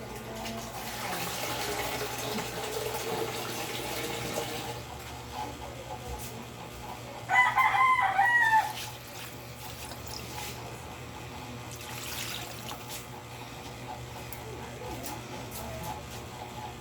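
A rooster crowing once, a loud call of about a second and a half, midway through. Before it comes a few seconds of rushing noise.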